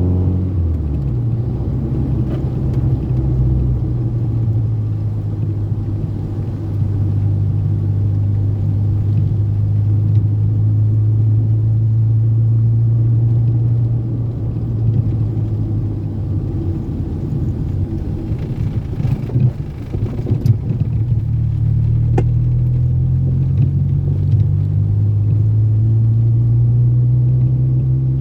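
Old Toyota Corolla sedan (AE80-series) engine pulling hard at high speed under a steady rumble of road noise. The engine pitch drops sharply about a second in, as at an upshift, then holds nearly steady and climbs slowly again near the end.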